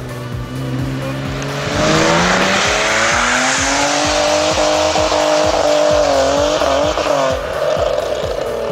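BMW E36 323i's straight-six engine running through straight pipes: it revs up about two seconds in, holds high revs for about five seconds with a harsh hiss over it, then drops back toward idle near the end.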